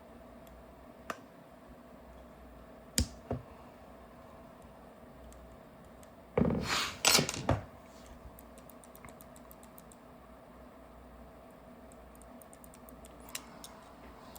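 Clicks and light knocks of small paintball marker parts being handled during reassembly. A few single clicks come first, then a louder noisy handling sound lasting about a second midway, then a run of faint quick ticks.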